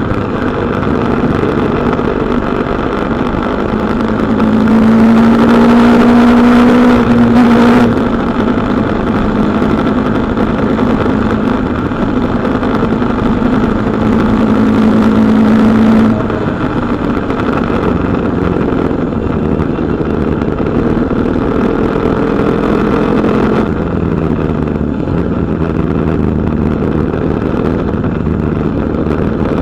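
KTM 250 Duke's single-cylinder engine running under way, pulling hard twice with rising pitch, each pull cut off sharply, then running at a steadier, lighter throttle.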